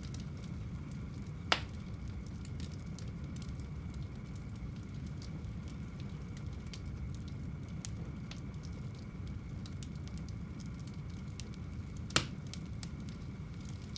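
Wood fire burning in a home fireplace: a steady low rumble of flames with scattered small crackles, and two sharp loud pops, one about a second and a half in and one near the end.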